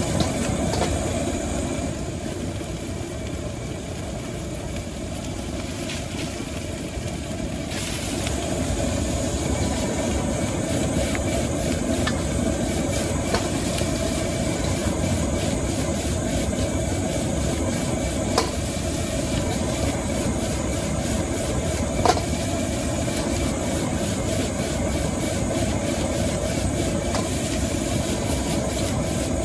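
Wok frying over a high-output gas burner: the burner's steady rushing noise with food frying in the wok, broken by occasional sharp clanks of a metal spatula striking the wok.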